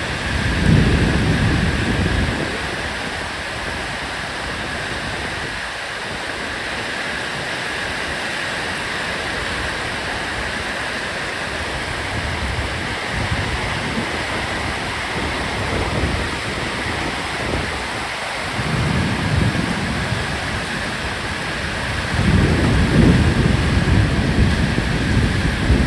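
Heavy rain pouring steadily, with low rumbling swells near the start, briefly past the middle, and again near the end.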